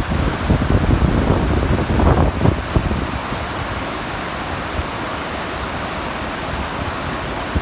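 Waterfall rushing in a steady, even roar of falling water. Wind buffets the microphone with low gusts during the first few seconds.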